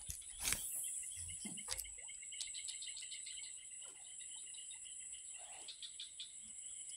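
Insects chirping steadily: a continuous high trill with a faster pulsing chirp beneath it. A few sharp knocks or clicks sound in the first two seconds, the loudest about half a second in.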